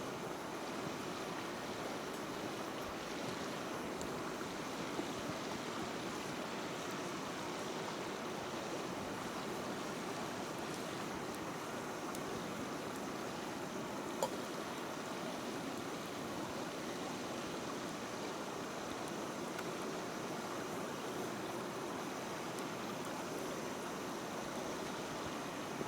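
Small wood fire in a mini hexagonal fire pit burning with a steady rushing hiss, with a sharp pop about 14 seconds in and a smaller one about 5 seconds in.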